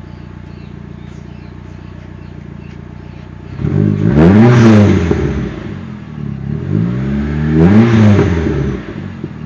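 Dodge Neon SRT-4's turbocharged 2.4-litre four-cylinder, with a Mopar Stage 3 setup, no catalytic converters and a Thermal R&D exhaust, idling steadily, then revved twice: the pitch rises and falls back to idle with each rev, the first about three and a half seconds in and the second about six and a half seconds in.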